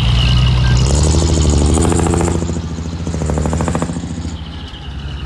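Diesel engine of a heavy earthmoving machine running. About a second in it rises in pitch under load, with a high rattling clatter, and it eases back after about four seconds.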